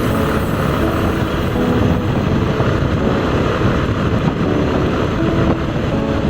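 Motorcycle running at highway speed with heavy wind rushing over the microphone, a steady dense roar with no break.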